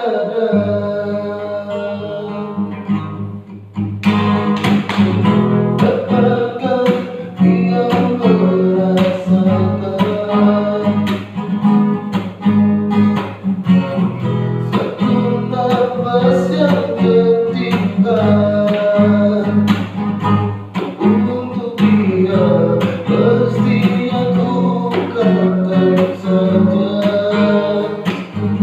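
Acoustic guitar strummed in a steady rhythm while a voice sings a melody over it; the strumming comes in fuller about four seconds in.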